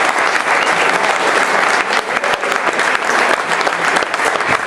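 Audience applauding in a large room: a steady, loud patter of many hands clapping.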